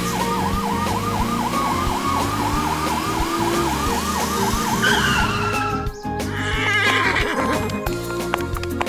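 Electronic emergency-vehicle siren yelping fast, about four swoops a second, over background music with a steady beat; it stops a little past four seconds in, and short electronic chirps and clatter follow.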